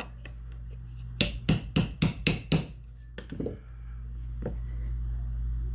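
A small hammer tapping a part into place in a side-by-side shotgun's action: about six quick, sharp taps, roughly four a second, then two softer knocks.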